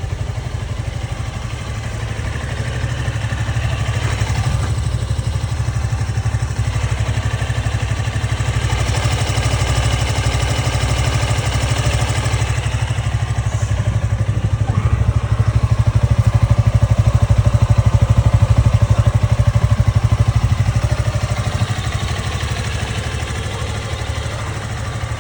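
Suzuki V-Strom 160's single-cylinder engine running steadily with an even low pulse. It grows louder for several seconds past the middle, then settles back.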